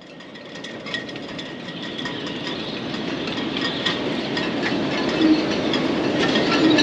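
Gusty wind blowing across the microphone, a rushing noise that builds steadily louder, with scattered light ticks and rattles through it.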